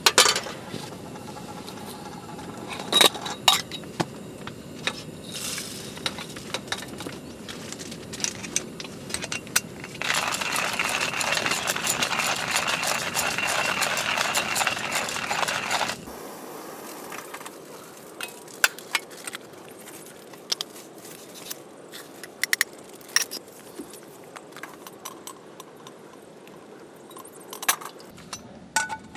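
Scattered light metallic clinks and clatter of handled gear, with a steady rush of noise for about six seconds in the middle, the loudest sound here.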